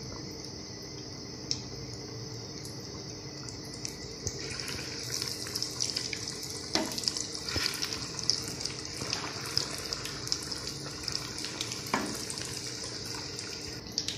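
Breadcrumb-coated potato balls sizzling and crackling in hot oil in a frying pan, growing busier about four seconds in. A few light knocks of a spatula against the pan come as the balls are turned.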